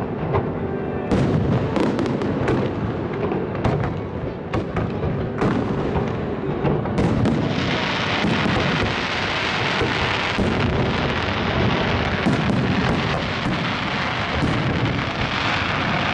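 Fireworks display: a rapid, irregular series of bangs and booms from shells and batteries, joined about seven and a half seconds in by a dense, steady hiss that runs on under the bangs.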